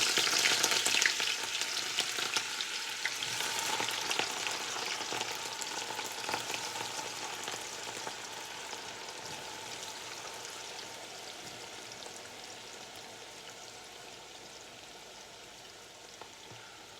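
Thinly sliced onions deep-frying in very hot oil: a loud sizzle just after they go in, fading steadily as the frying settles down.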